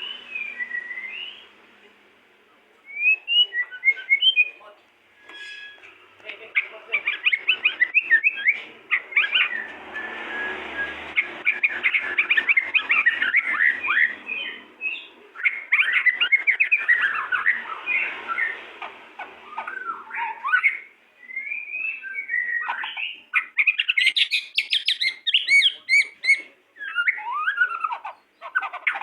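A pair of pied ('blorok') white-rumped shamas singing vigorously: a near-continuous run of varied whistled phrases and rapid chattering notes, broken by a few short pauses.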